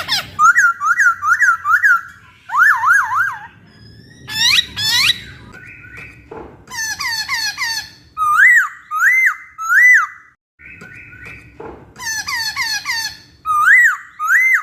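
Poksay (laughingthrush) singing: phrases of three or four loud, clear whistled notes, each a quick upward-and-down slur, repeated with short pauses between.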